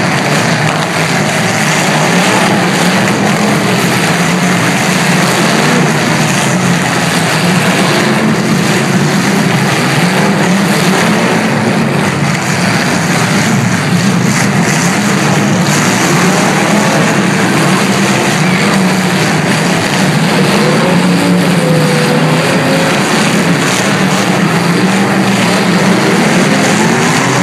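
Several demolition derby cars' engines running and revving together, a loud, steady mass of engine noise, with one engine note wavering up and down about two-thirds of the way through.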